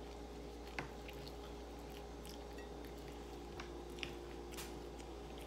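A person chewing a mouthful of hamburger close to the microphone, with small scattered wet clicks and smacks of the mouth, over a steady low hum.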